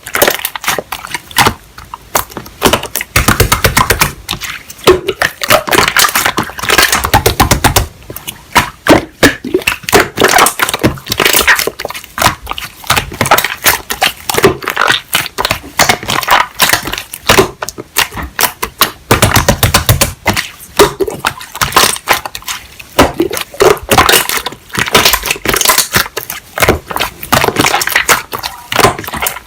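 Hands kneading and pressing slime: a dense, irregular run of small clicks and crackles, with a few deeper, heavier presses.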